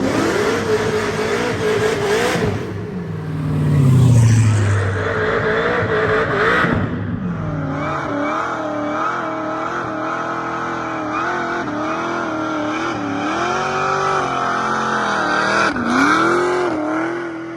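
Cadillac CTS-V's V8 revving hard and held high during a burnout, its pitch wavering up and down as the throttle is worked. The engine sound is mixed with the noise of the spinning tyres.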